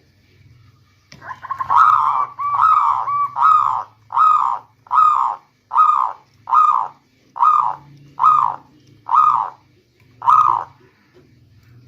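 Local perkutut (zebra dove) cooing: a string of about a dozen short, full coos. The first few come in a quick rolling run about a second in, then the rest follow evenly, a little under one a second.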